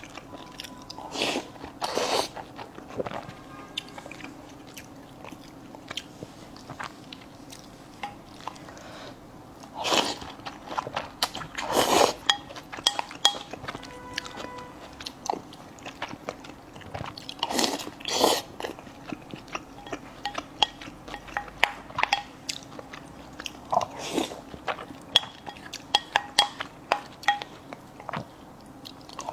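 Close-miked eating: irregular chewing and biting, with sharp crunchy mouth noises and a few louder bites scattered through.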